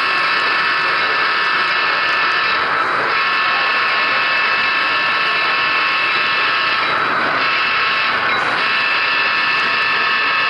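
Model train running: a steady, high mechanical whine of several tones over rolling noise, dipping briefly about three seconds in and again between seven and eight seconds.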